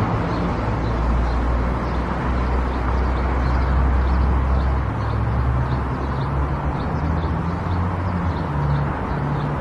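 Car driving along the road: steady tyre and engine noise with a low rumble, and a faint regular ticking about two to three times a second.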